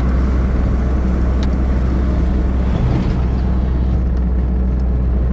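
Truck engine and road noise heard from inside the cab while driving on an expressway: a steady deep drone.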